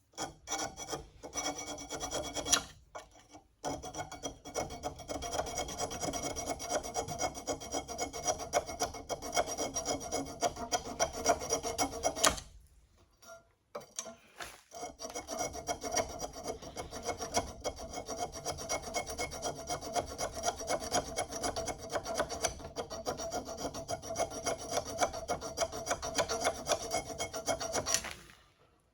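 Hand file scraping back and forth on a metal mount bracket, shaping a drilled slot so the part fits. The strokes are fast and steady, with a brief pause about 3 seconds in and a longer one about halfway through.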